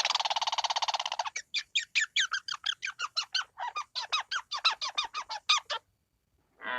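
Animal calls: a harsh rattling buzz for about a second, then a rapid run of short, falling calls, about five a second, which stop a second before the end.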